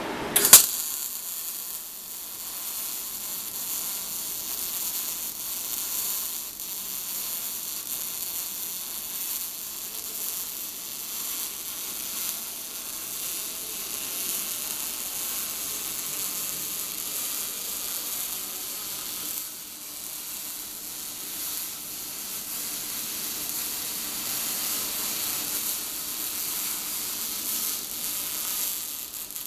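Gas-shielded (MIG/MAG) welding arc struck with a sharp crack about half a second in, then a steady crackling hiss as the weld bead is run.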